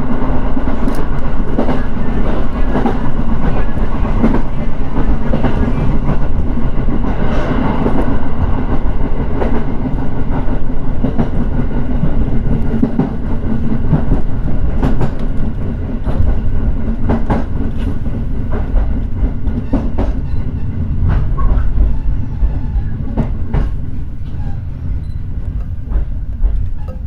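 Train running along the rails: a steady rumble with repeated clicks of wheels over rail joints, getting quieter toward the end.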